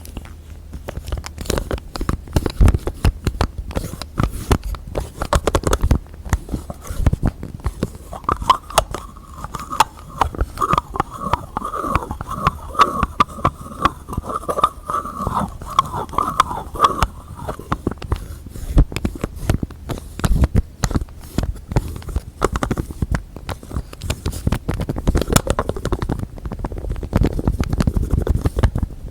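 Fingertips and nails tapping and scratching quickly on lids and containers in a dense, continuous run of taps. From about a third of the way in to just past halfway, the tapped object rings with a clear pitched tone on each stroke.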